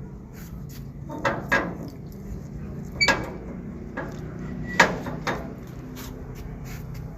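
About five sharp knocks and clatters, the loudest a little before the end, over a low steady hum.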